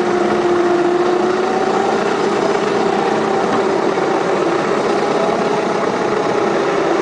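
Garden-scale model locomotive running along the track, its electric motor and gears whining steadily over a continuous running noise.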